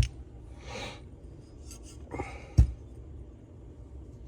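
Small metal engine parts and tools being handled on a bench. There is a click at the start and a sharp knock about two and a half seconds in, with a couple of soft breathy rustles between.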